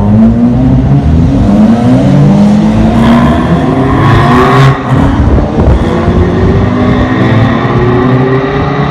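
Several sports-car engines running and accelerating in a pit lane, overlapping engine notes rising in pitch as the cars pull away.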